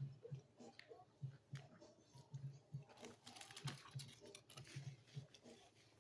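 Faint close-up chewing of a mouthful of bacon cheeseburger: soft, regular mouth sounds about three a second, with small wet clicks.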